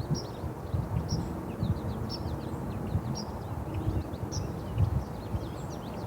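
Small birds chirping: a short high call repeats about once a second, with quick thin notes in between, over a steady low rumble.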